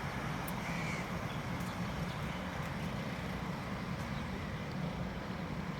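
Steady low rumble and hiss of outdoor background noise, with one short, faint bird call about a second in.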